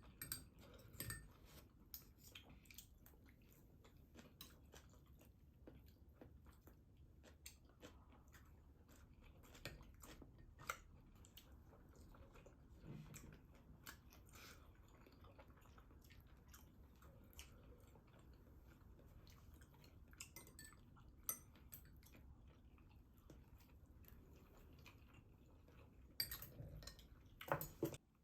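Faint eating sounds: chewing with scattered light clicks and taps of cutlery on dishes, a quicker run of clicks near the end.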